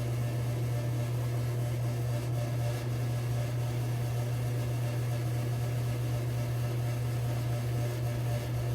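Steady low mechanical hum in a small room, unchanging throughout.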